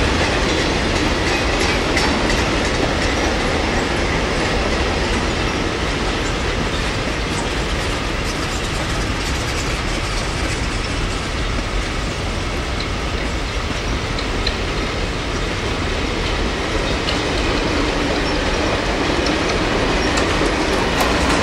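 Wagons of a heavy freight train rolling steadily past: a continuous rumble of steel wheels on the rails with light clatter.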